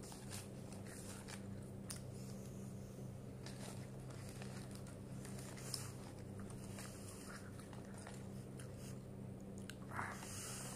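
A person chewing a mouthful of spicy McChicken sandwich up close, with irregular small crunches and wet mouth clicks. A steady low hum runs underneath.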